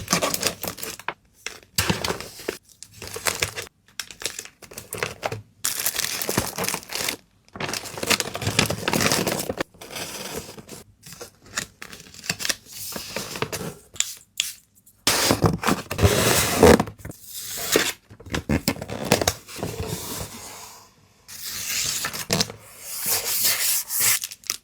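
Packaging materials being handled: plastic and paper wrapping crinkling, rustling and tearing in quick, irregular bursts with brief pauses between them, loudest about two thirds of the way through.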